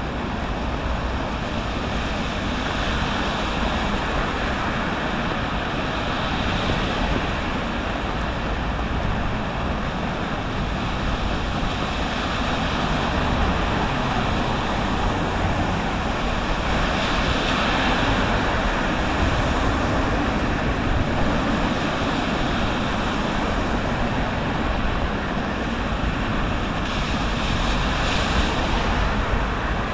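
Sea surf washing onto a beach in the rain: a steady rush of waves that swells and eases several times.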